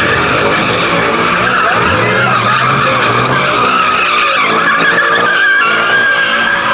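Car spinning its tyres, a continuous loud tyre squeal over the engine held at high revs.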